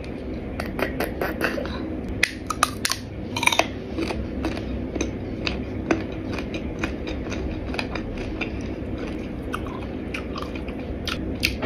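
Close-up chewing of crisp iced fresh fruit: a run of wet crunches and small clicks, densest in the first few seconds and thinning out toward the end.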